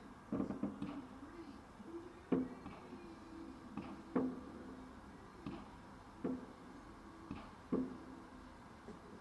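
Firework bangs, muffled and irregular, about seven in all, each a second or two apart and each followed by a short low ring.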